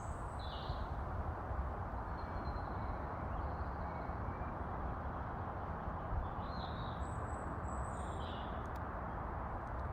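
Wild birds singing in short, scattered chirps, a few separate calls over several seconds, over a steady background hiss.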